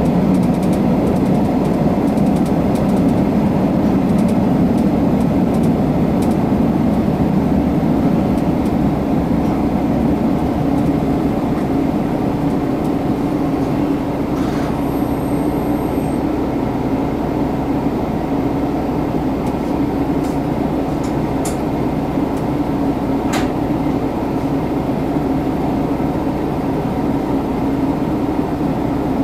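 Diesel railcar heard from inside the passenger cabin, slowing to a stop at a station and then standing with its engine idling in a steady low hum.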